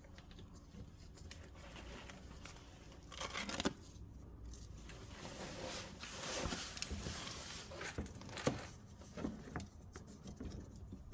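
Rustling and crinkling handling noises with a few sharp clicks: a burst about three seconds in, a longer stretch of rustling in the middle, and a click near the end.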